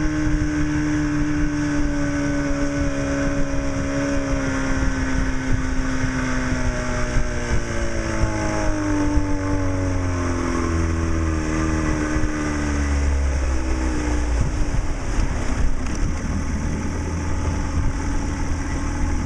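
Force 40 hp two-stroke outboard motor running, its pitch sliding down slowly twice as it winds down, then settling into a low steady rumble over a steady hiss for the last few seconds.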